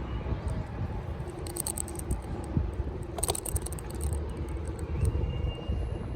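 Bicycle ride heard through a bike-mounted camera: low wind and road rumble with bursts of rattling as the loosely held mount and bike shake over the street.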